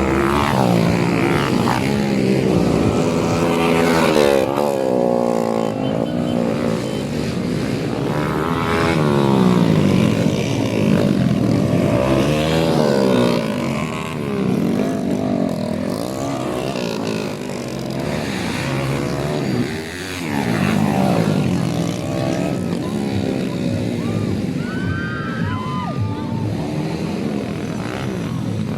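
Several motocross bikes racing, their engines revving up and down and overlapping as they pass and shift.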